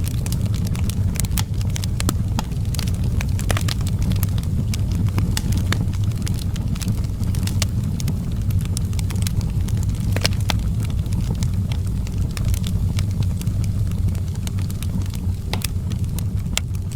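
Outdoor wood fire crackling: many irregular sharp snaps and pops over a steady low rumble.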